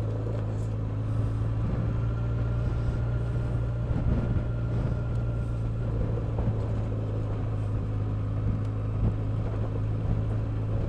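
Motorcycle engine running at a steady speed while riding, a low even drone over rumble from the road, with a few brief jolts from a rough surface.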